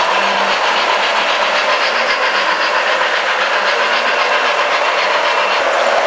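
O gauge model trains running on the layout's metal track: a steady whir and rumble of the locomotive motors and the wheels on the rails.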